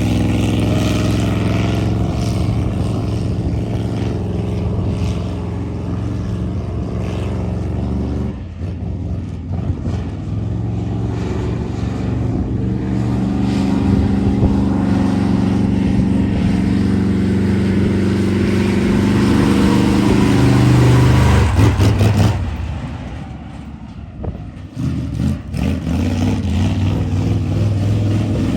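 Monster truck's engine running loudly and being revved, building to a peak about three-quarters of the way through, then dropping off sharply and picking up again a few seconds later.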